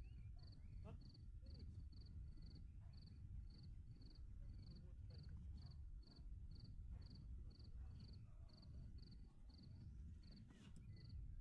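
Faint cricket chirping, about three short high chirps a second, over a low background rumble.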